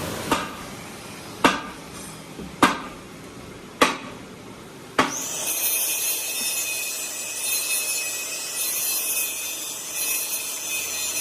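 Five sharp hammer knocks about a second apart. Then a power tool starts about five seconds in and runs with a steady high-pitched whine.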